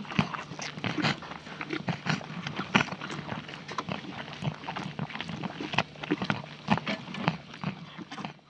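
Farm animal recording: a dense run of sharp knocks and clatters with animal noises, fading out near the end.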